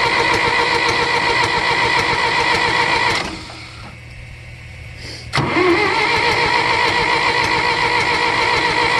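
A small electric motor running with a steady whir, cutting off a little over three seconds in and starting again about two seconds later with a click and a brief rise in pitch as it spins up.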